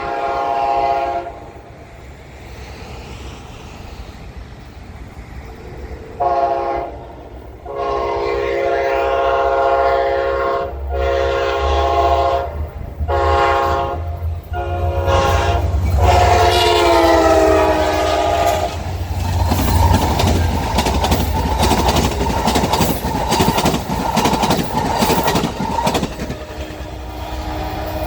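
Locomotive air horn sounding a series of blasts, the last one long and dropping in pitch as the locomotive passes. The train's cars then roll by, wheels clacking steadily over the rail joints.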